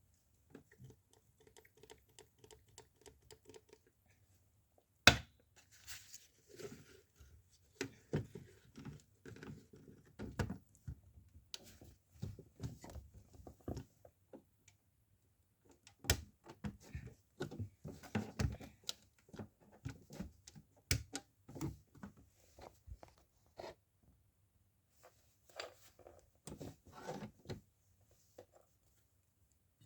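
Irregular handling noises: scattered clicks, knocks and rustling, with a sharp knock about five seconds in and another about sixteen seconds in.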